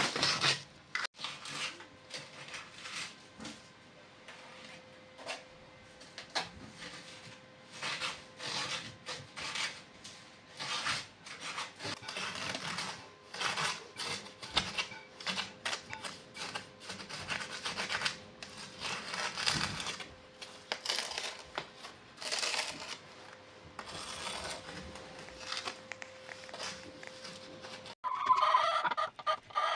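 Irregular scraping and tapping as stove mortar is pushed into the gap around the chimney flue with a ruler. About two seconds before the end it cuts suddenly to hens clucking.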